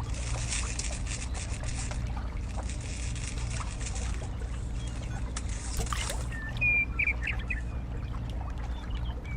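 Water trickling steadily over a constant low hum, with a few short chirps about two-thirds of the way in.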